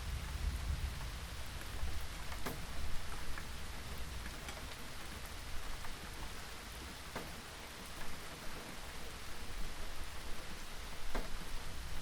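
Steady rain falling on a surface, an even hiss with a few louder individual drop hits every couple of seconds. A low rumble sits underneath, heaviest in the first couple of seconds.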